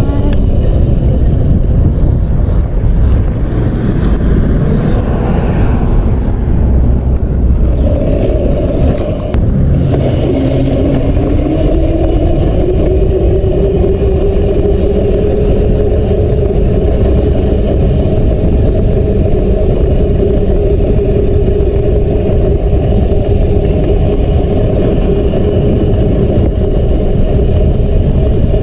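Dirt bike engine running loud with a heavy low rumble; about ten seconds in its note climbs and then holds steady at the higher pitch.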